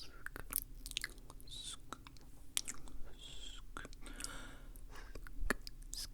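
Close-up wet mouth sounds: irregular sticky clicks and smacks of the lips and tongue, with short, soft breathy hisses between them.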